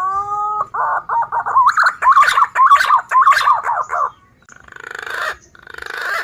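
Green pigeon (punai) song played as a bird-catching lure. A long whistled note opens it, then comes a quick run of warbling whistled notes, then two rough, rasping croaks near the end.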